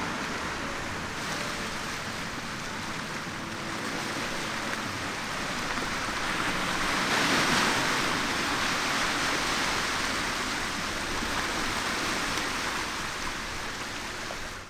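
Sea waves breaking and washing ashore, a steady rush that swells to its loudest about halfway through.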